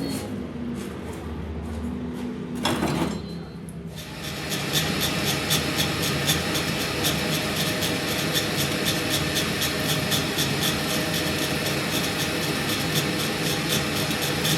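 Steady mechanical workshop noise with a fast, even ticking rhythm, starting about four seconds in after a quieter stretch.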